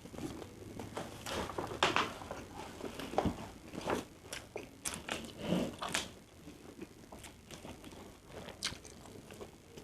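Close-up eating sounds: a person chewing mouthfuls of fried rice, with irregular small clicks of a spoon and wet mouth noises.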